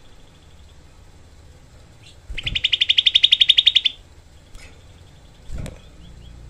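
Grey-bellied bulbul (cucak kelabu) giving one fast, dense trill of about a second and a half, the rapid-fire 'tembakan' burst prized in this bird's song. A soft low thump follows near the end.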